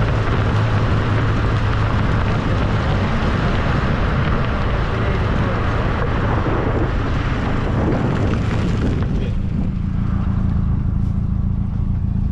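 1275cc MG Midget's four-cylinder engine running steadily on the move, under a broad hiss of wind and road noise from the open-top car. The hiss thins out about nine seconds in while the engine note carries on.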